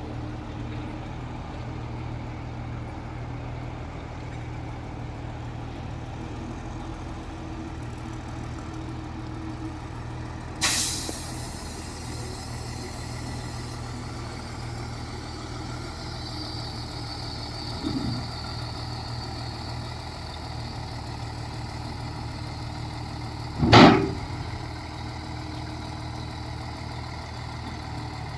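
Heavy diesel engine running steadily at low revs. About eleven seconds in comes a sudden sharp hiss of air from a truck's air brakes, and near the end a louder short burst.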